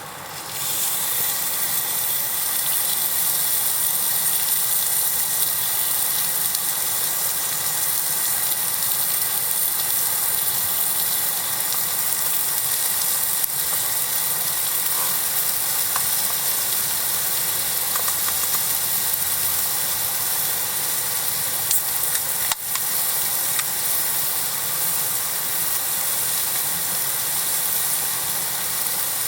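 Food sizzling on a hot iron griddle: a steady frying hiss with a few faint ticks.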